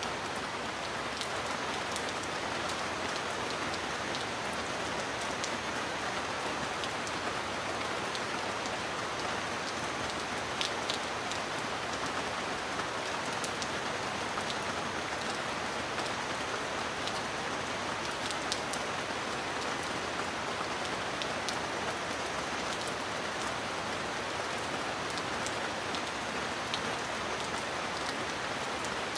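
Steady heavy rain: a dense, even hiss of falling rain with scattered sharper drop splashes.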